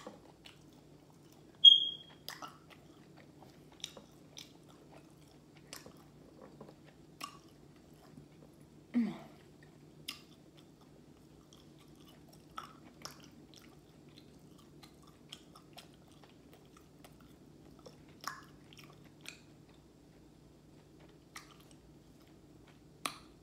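Close-up chewing of crispy fried chicken, heard as scattered sharp mouth clicks and crunches every second or so over a steady low hum. About two seconds in there is a brief high-pitched squeak, the loudest sound, and a short low hum falls in pitch about nine seconds in.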